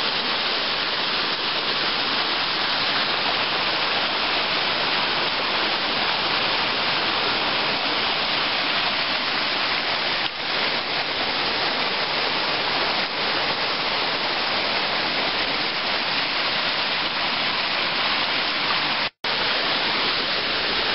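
Small mountain creek rushing over rocks, a loud steady rush of water, briefly cutting out near the end.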